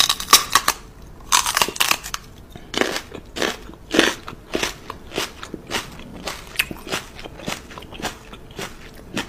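Crisp crunching and chewing sounds, like biting into something crunchy, in short irregular bites about two or three a second, as a woman mouths a Rottweiler's paw as if eating it.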